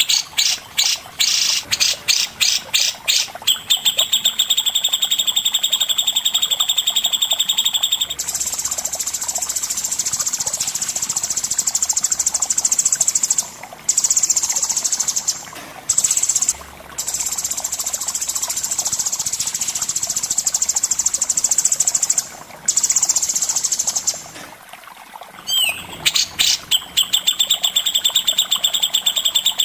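Songbirds singing: a cucak jenggot (brown-cheeked bulbul) and a long-tailed shrike (cendet) in fast, high, repeated chattering notes and trills. The song runs in long stretches with a few short breaks and a pause of about a second near the end.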